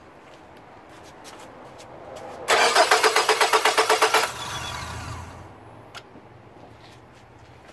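Starter cranking the 2002 Nissan Altima's 2.5-litre four-cylinder engine in fast, even pulses for about two seconds, starting a couple of seconds in, then stopping without the engine catching. It is a crank-no-start: the scan tool shows no RPM signal, so there is no spark, which points to the crankshaft/camshaft position sensors (code P0340).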